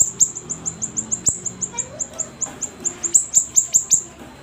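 A siri-siri songbird singing: a rapid run of short, high, downward-sweeping chirps, about five or six a second, some louder than others.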